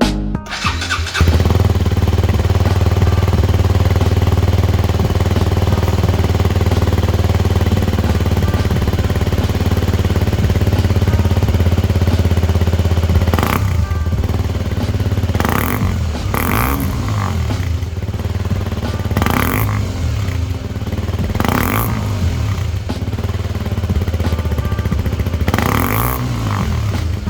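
KTM Duke 125 single-cylinder four-stroke engine running through an aftermarket Arrow exhaust. It comes up about a second in and idles steadily, then is revved in about six short throttle blips in the second half.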